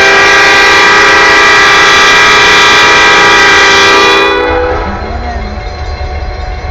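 CN freight locomotive's air horn sounding one long, loud chord that cuts off about four seconds in, leaving the low rumble of the passing train.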